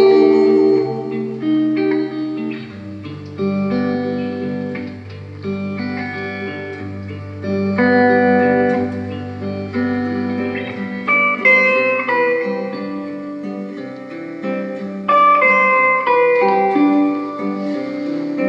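Instrumental break of a song: guitar playing a melody of plucked notes over a bass line, with no singing.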